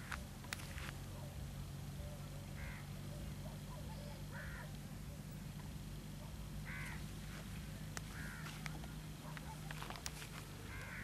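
A bird calling about five times, roughly every two seconds, over a steady low hum, with a few sharp clicks in between.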